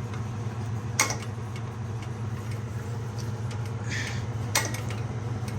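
Sharp metal clanks and lighter ticks of tools and parts being handled on a blown-up small-block V8 during teardown: two loud knocks about three and a half seconds apart, over a steady low hum.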